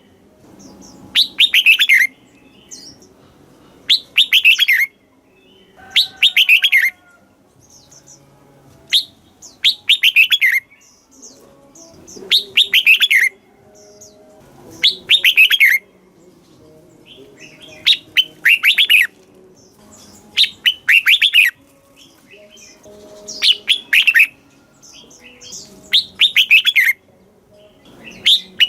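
Red-whiskered bulbul singing: short, bright phrases of quick falling notes, repeated about every two and a half seconds.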